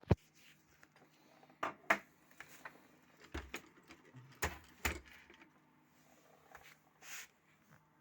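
Handling noises: a string of irregular clicks and knocks, a few sharper than the rest, and a short rustle near the end.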